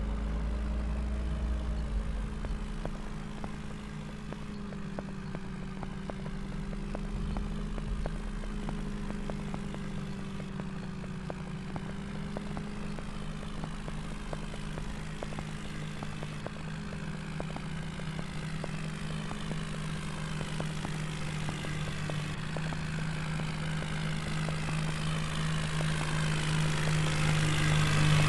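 Tractor diesel engine running steadily, getting louder over the last few seconds.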